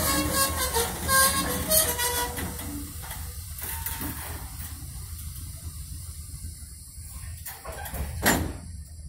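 Freight cars, a loaded tank car and a covered hopper, rolling slowly over the track. There is metallic squealing and clanking from the wheels and couplings over the first couple of seconds, then a low steady rumble, and one sharp knock about eight seconds in.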